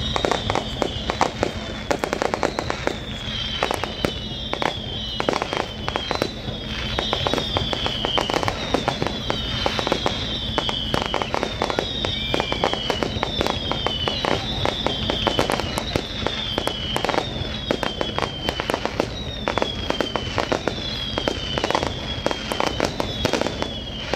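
Aerial fireworks display going off continuously: rapid bangs and crackles one after another. Over them, a high whistle falling in pitch repeats roughly once a second.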